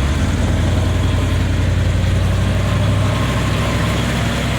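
Vehicle engine running steadily at low revs, a low hum with no change in speed.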